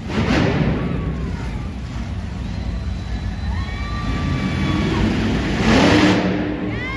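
Monster truck engine running and revving in an arena, a steady deep rumble that surges loudly near the start and again about six seconds in.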